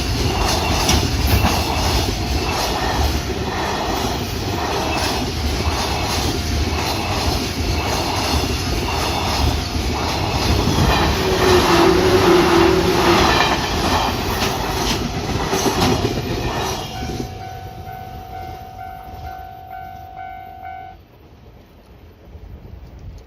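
Freight train running past with a rhythmic clickety-clack of wagon wheels over rail joints, about one and a half beats a second. The noise drops off sharply about 17 seconds in as the train clears, and a steady pitched tone follows for about four seconds before cutting off.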